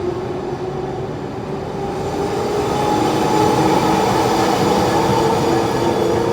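Electric tram passing on street rails: a steady electric motor hum over wheel and rail rumble, growing louder about two seconds in, its tone edging slightly upward.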